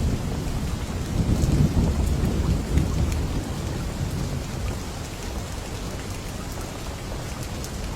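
Steady rain falling, with scattered drop ticks. A low roll of thunder rumbles through the first few seconds and dies away.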